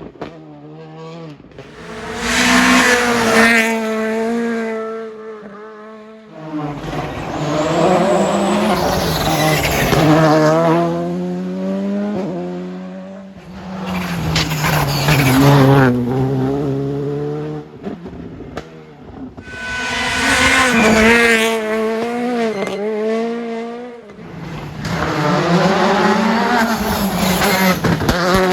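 Rally cars driven hard on a special stage, engines revving high and shifting up and down through the gears. About five loud passes follow one another, each swelling and fading away.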